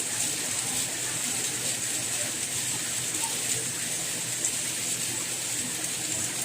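Rain falling steadily: an even, continuous hiss with faint scattered drops ticking through it.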